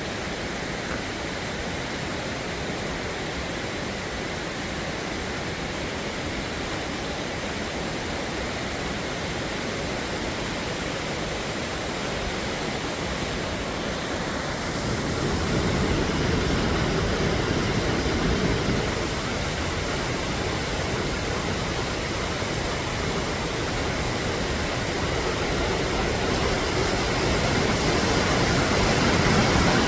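Steady rushing of flowing water, growing louder about halfway through and again near the end.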